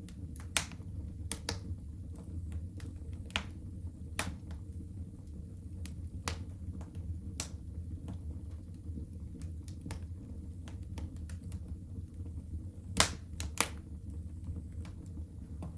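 Wood fire burning in a fireplace: irregular sharp crackles and pops over a steady low rumble, with two louder pops in quick succession near the end.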